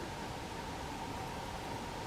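Steady, even hiss with a faint constant tone near 1 kHz running underneath.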